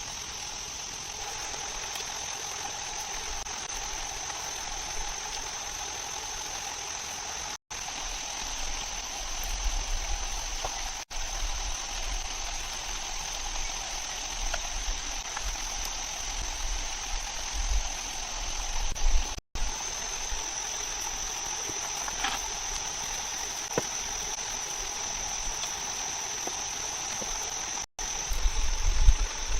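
Steady insect drone: a continuous high-pitched buzz over a lower steady hum and a soft haze, with a few low rumbles.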